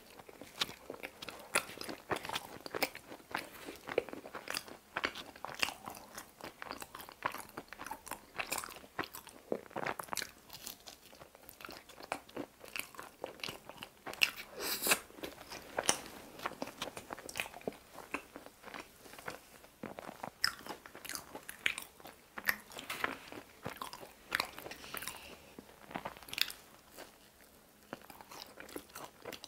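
Someone chewing and biting into pizza crust, a steady irregular run of crisp crunches throughout.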